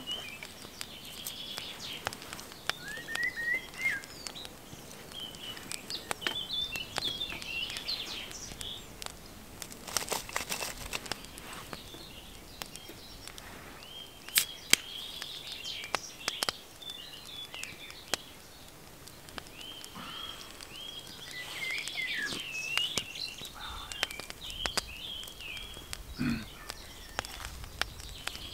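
Woodland birdsong: several small birds chirping and trilling on and off, with scattered rustles and small clicks from handling things close by.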